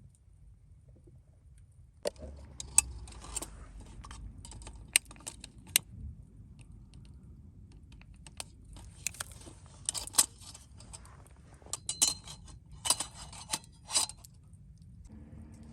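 Small metal objects clinking and jangling as they are handled, starting about two seconds in: a string of sharp, bright clinks that come in clusters, with the loudest bunched near the end.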